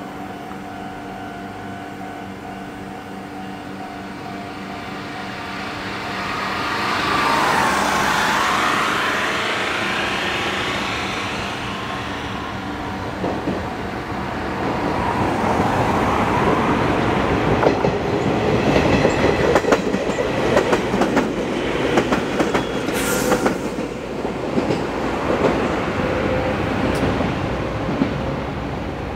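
Izuhakone Railway Sunzu Line electric train running past on the open line: a steady hum at first, then from about halfway a rapid run of wheel clacks over the rail joints as the cars go by, louder in the second half.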